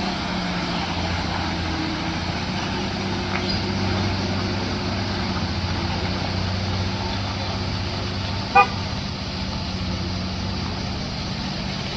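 A vehicle engine running steadily, with one short horn toot about eight and a half seconds in.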